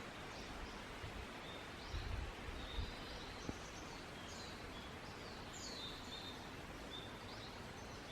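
Wild birds singing: repeated short high chirps and falling whistles over a steady outdoor hiss, with a couple of soft low bumps about two seconds in.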